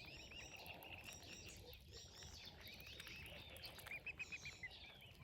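Faint bird chirps and peeps over outdoor background noise, with a quick run of about six louder high peeps about four seconds in.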